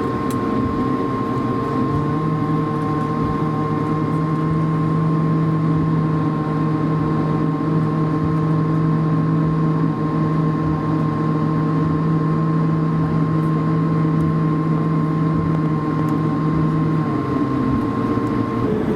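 Airbus A220-300 cabin noise while taxiing after landing: a steady engine and air-system hum with a thin, high whine. A low drone comes in about two seconds in and drops away shortly before the end.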